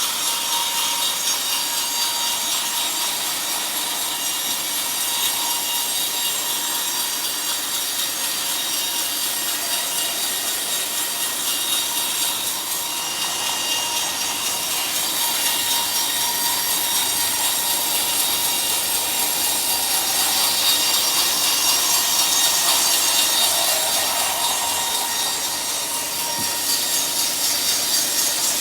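Sawmill saw cutting through a teak log: a continuous cutting noise with a steady whine through it, a little louder past the middle.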